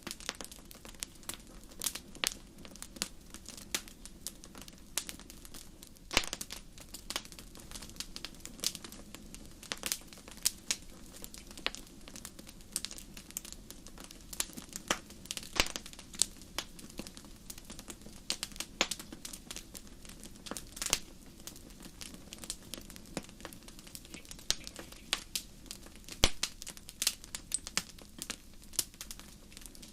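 Wood fire crackling in a fireplace: irregular sharp pops and snaps, several a second, with louder single pops now and then, over a steady low rumble of the flames.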